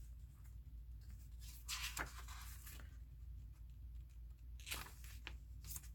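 A few faint, short rustles of paper pages of a handmade junk journal being handled and turned.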